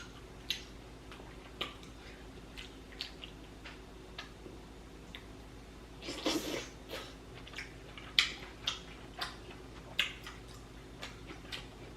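Close-up eating sounds while chewing seafood: scattered short wet mouth clicks and smacks, with a longer, louder noisy patch about six seconds in.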